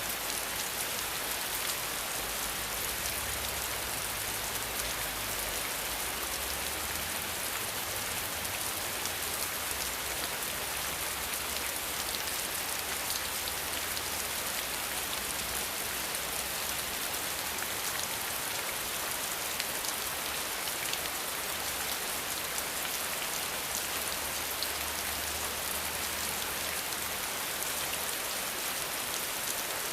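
Steady rain falling, a dense even hiss of drops with fine individual patters on surfaces.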